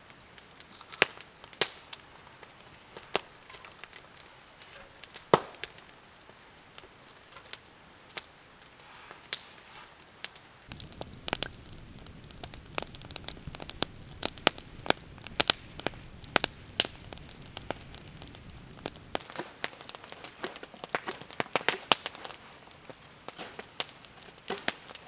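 Wood fire crackling, with irregular sharp pops and snaps. It grows busier, with more frequent pops over a low rumble, from about the middle to three-quarters through.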